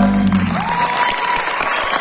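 A live band's final chord dies away about half a second in, and an audience applauds, with a whistle or cheer rising over the clapping.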